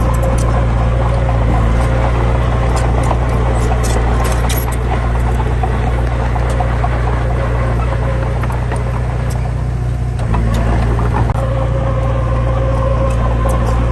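Heavy diesel engine running steadily at close range, its low note shifting about ten seconds in, with scattered light clicks over it.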